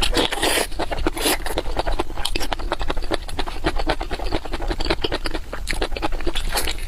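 A person chewing food close to the microphone: a dense, continuous run of quick wet mouth clicks and crackles.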